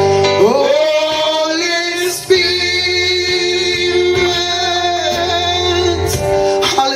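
Gospel worship song: a voice holds long sung notes over sustained instrumental accompaniment.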